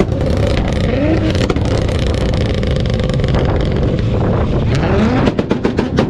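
Toyota Supra's turbocharged engine revving hard, then held on a two-step launch limiter about five seconds in, the exhaust firing a rapid string of sharp pops and bangs.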